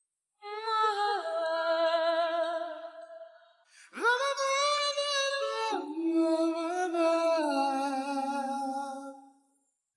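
Wordless singing in a vocal track isolated from a studio ballad recording, with no instruments: long held vowel notes with vibrato in two phrases, the second starting about four seconds in.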